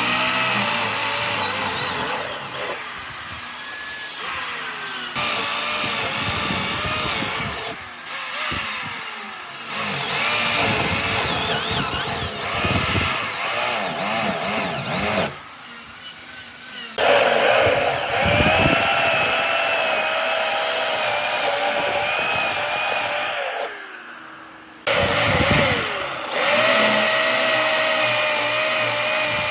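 A power tool's motor running under load on wood, its pitch sagging and recovering as it cuts. The sound breaks off abruptly twice, about halfway through and near the end, each time picking up again in a new clip.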